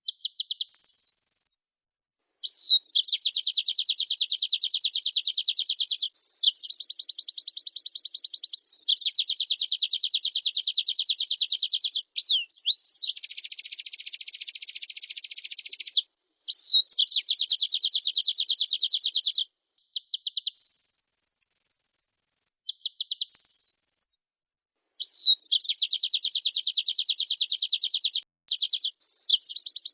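White-eye (pleci) singing vigorously in long phrases of fast, rapid-fire trilled notes, each phrase a few seconds long with short pauses between. A few short, harsh hissing bursts come in near the start and about two-thirds of the way through.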